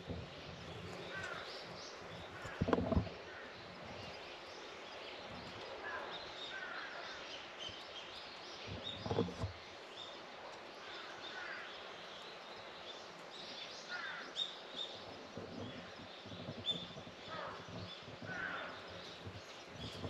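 Small birds calling off and on over a steady outdoor background hiss: short, falling chirps at intervals. Two dull thumps stand out, one about three seconds in and one about nine seconds in.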